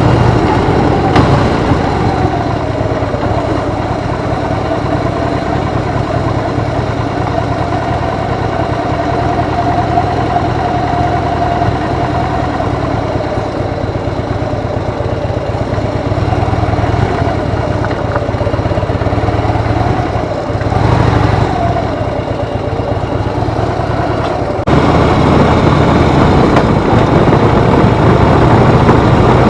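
Harley-Davidson motorcycle's V-twin engine running, its pitch rising and falling gently. About 25 s in, the sound abruptly gets louder and heavier in the low end.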